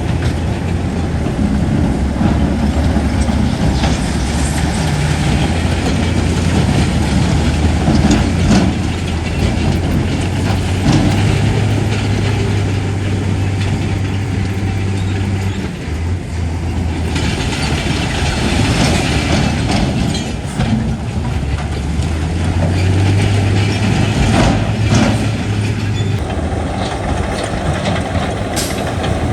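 Heavy diesel engine of an earthmoving machine (bulldozer or dump truck) running under work, its low note shifting up and down as the load changes, with scattered sharp clanks and knocks of rock and steel.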